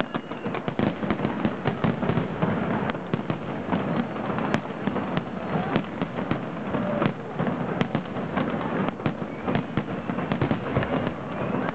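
Dense fireworks barrage: many overlapping bangs and crackles in rapid succession, without a break.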